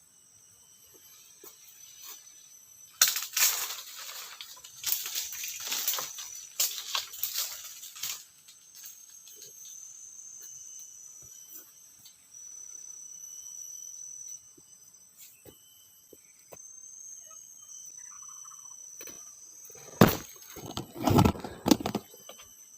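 Forest insects calling in steady high-pitched tones, broken by bursts of rustling from about three to eight seconds in and by louder rustling and knocks near the end.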